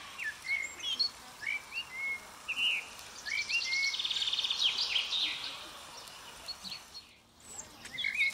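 Small birds singing: short rising chirps and quick trills, repeated many times over a faint steady background hiss.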